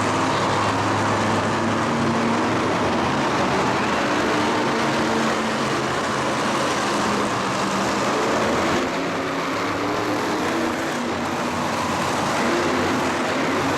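Loud vehicle engine running, its pitch shifting up and down, over a steady arena din.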